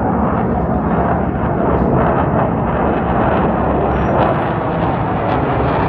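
Twin AL-31FP turbofan engines of a Sukhoi Su-30MKI running at full throttle in afterburner: a loud, steady, rough jet noise.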